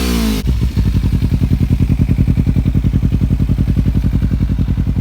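Kawasaki Z250 parallel-twin engine through an aftermarket Akrapovic exhaust, its revs falling back and settling about half a second in to a steady idle with an even, rapid pulsing exhaust note.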